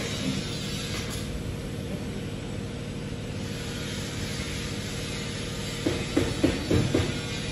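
Car engine idling with a steady low hum. Near the end, a rhythmic drum beat comes in over it.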